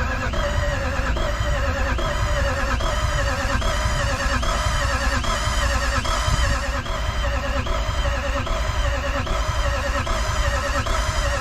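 Toyota 1VD-FTV V8 turbo diesel being cranked over on the starter motor without firing, a rhythmic whine rising and falling a little under twice a second with the compression strokes. It will not start because there is no fuel rail pressure.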